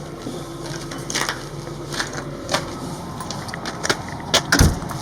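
Footsteps and door clatter as someone walks out through a doorway: scattered knocks and clicks, the loudest a heavy thump near the end. A low steady hum underneath stops about halfway through.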